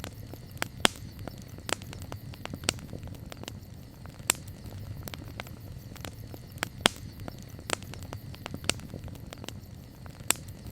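Campfire burning with irregular sharp crackles and occasional louder pops, over a low steady rumble of the flames.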